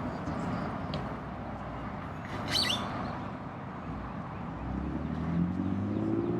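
Outdoor traffic noise, a steady rumble, with a short bird chirp about two and a half seconds in and an engine rising in pitch near the end as a vehicle speeds up.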